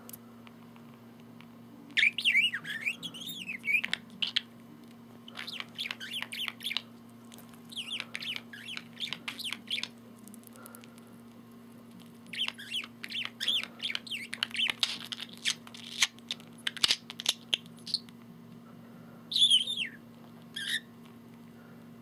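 Pet budgerigar chattering and warbling in several bouts of fast, wavering, high chirps with short pauses between them.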